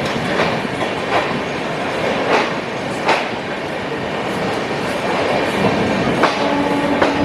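Passenger train running, its wheels clicking irregularly over the rail joints against a steady rumble. About six seconds in a steady pitched tone joins the noise and holds.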